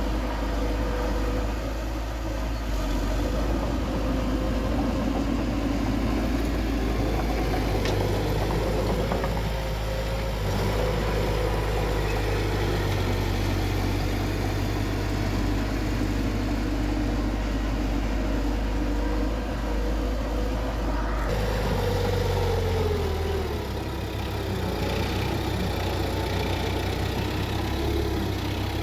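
Bulldozer's diesel engine running steadily while working. Its pitch drops about three-quarters of the way through and starts to rise again near the end, as the load or throttle changes.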